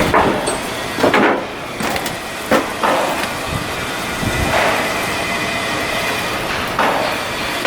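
Steel shipbuilding work: irregular metal clanks and knocks every second or two over a steady mechanical din.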